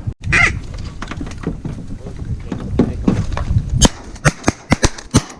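Wind buffeting the microphone, then a rapid run of sharp cracks or knocks starting a little under four seconds in, the first the loudest.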